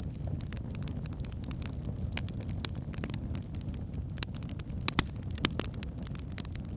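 Wood fire burning in a fireplace: a steady low rumble of flames with frequent sharp crackles and pops of burning logs, two louder pops about five seconds in.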